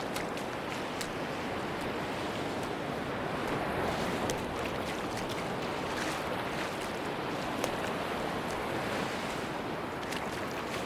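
Sea surf washing steadily onto a beach, an even rushing wash with scattered faint ticks over it.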